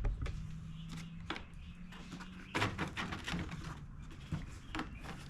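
Scattered light clicks and taps of hands and small parts handled on an inverter generator's casing, with a denser run of rattling clicks about two and a half seconds in.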